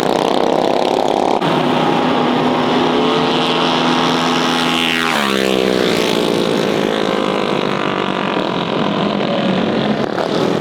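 Mini bike engines running hard at high revs. About halfway through, one bike passes close and its pitch drops sharply as it goes by.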